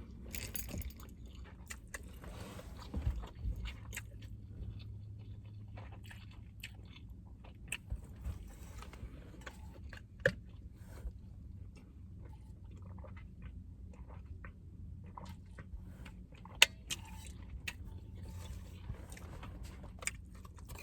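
Close-miked chewing and eating mouth sounds: food chewed with scattered wet smacks and clicks, a few of them sharper and louder.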